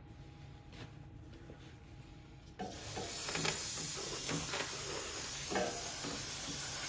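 Aerosol cleaner spray can spraying in a steady hiss, starting suddenly about two and a half seconds in and running on, used to blast dust and grease off the engine's governor linkage.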